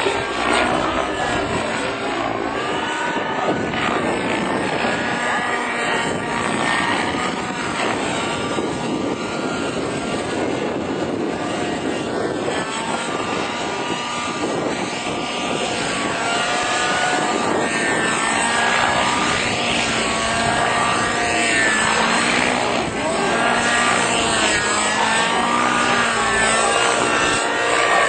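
Helicopter running: a loud, steady rotor and engine noise, with pitched sounds repeatedly rising and falling over it.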